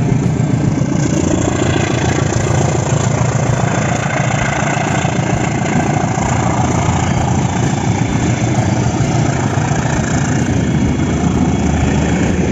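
KAI CC204 diesel-electric locomotive passing at close range with its engine running, then passenger coaches rolling past on the rails, a loud steady rumble.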